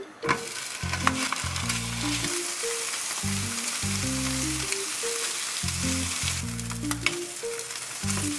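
Ham slices sizzling in a hot rectangular frying pan as they are laid in and moved with a spatula, with a few sharp clicks of the spatula and slices against the pan. The sizzle starts just after the beginning and eases a little after about six seconds. Soft background music plays underneath.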